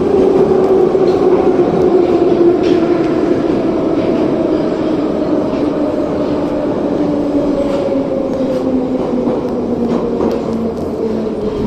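Soviet-built 81-717 metro car running on the Minsk metro, its traction motors whining over the rumble of the wheels. The whine falls steadily in pitch as the train slows down.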